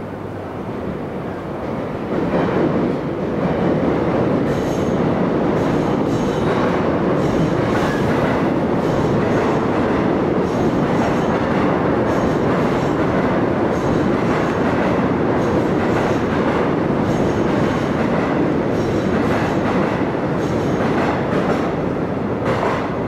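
Electric commuter train passing through the station at speed: a steady, loud rumble of wheels on rail with a run of regular clicks as the cars go by. It swells about two seconds in and eases off near the end as the last cars clear.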